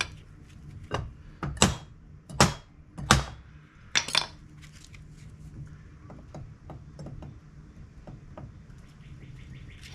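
Sharp hammer strikes on a steel door hinge, about seven in the first four seconds, then only light taps: driving the old hinge bushings out.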